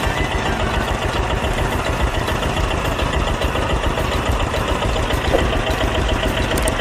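Engine of a homemade miniature tractor running steadily, with a fast, even pulsing.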